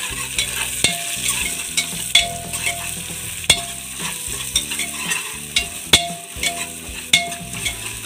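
Onions, ginger-garlic paste and green chillies frying in oil in a pressure cooker, with a steady sizzle. A metal spatula scrapes and knocks against the pot many times at irregular intervals as the mixture is stirred.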